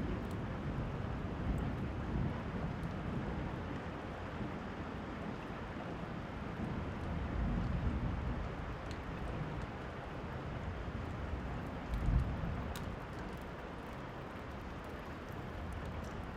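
Steady rain with low thunder rumbles swelling a few times, most strongly in the middle and about twelve seconds in, and scattered faint crackles from a fireplace.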